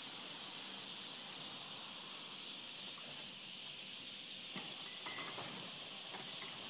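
Massed chatter of a large starling flock gathering to roost, heard as a steady high hiss-like din, with a few sharper clicks and a short chirp about two-thirds of the way through.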